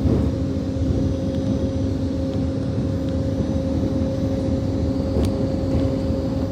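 A CrossCountry Voyager diesel train running: a steady low rumble of the underfloor diesel engines and wheels on the rails, with a steady hum and a few faint clicks.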